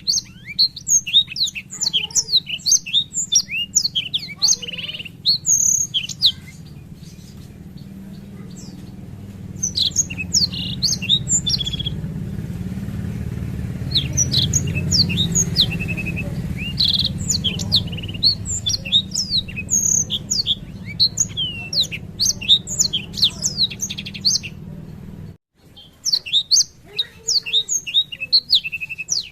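Black-throated canary (blackthroat) singing its long rolling song, rapid high twittering notes strung together in several stretches with short pauses, over a steady low hum that cuts off about 25 seconds in.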